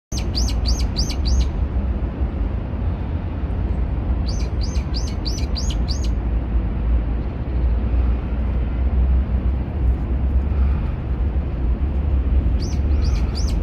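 A songbird calling in three bursts of quick, high chirps that each drop in pitch, five or six to a burst: one at the start, one around four seconds in and one near the end. Under the calls runs a steady low rumble.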